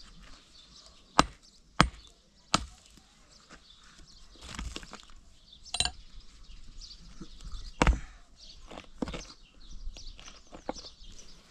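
Sharp knocks of hand-tool strikes during building work: three about two-thirds of a second apart in the first three seconds, then scattered softer knocks, and the loudest single strike about eight seconds in.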